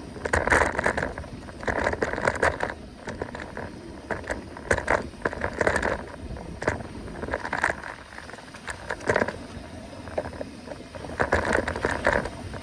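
Mountain bike rolling over a forest trail: tyres crackling and scraping over dirt and leaves, with rattling clicks from the bike, in uneven surges. Wind rumbles on the microphone throughout.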